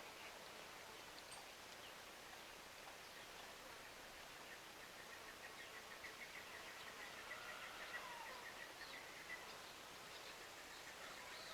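Faint outdoor ambience, with a soft rapid bird trill of quickly repeated notes in the middle and a few faint chirps.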